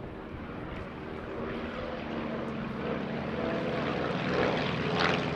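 Propeller-driven light aircraft in formation, their piston engines droning and growing steadily louder as they approach.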